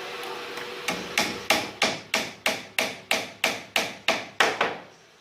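Carpenter's hammer striking wood about a dozen times in a steady rhythm, about three blows a second, starting about a second in and stopping just before the end.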